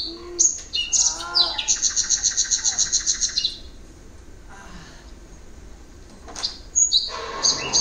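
Bird chirps, with a fast trill of about eight notes a second that lasts nearly two seconds, then a quieter stretch and more short chirps near the end.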